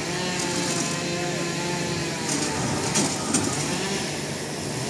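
Sawmill machinery motor running at a steady pitch, with a few short knocks and clicks about halfway through.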